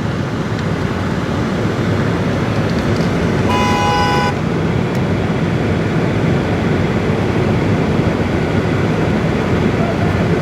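Steady vehicle engine and road noise as a 4x4 pulls a stuck vehicle out of snow on a recovery strap. A short car-horn honk comes about three and a half seconds in.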